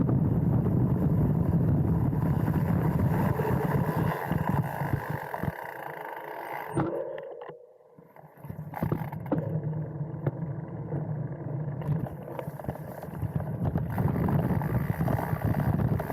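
Mountain bike riding down a dirt trail, heard from a handlebar-mounted camera: wind buffeting the microphone, tyres rolling over the ground and the bike rattling. It goes nearly quiet for about a second halfway through, then the rumble picks up again.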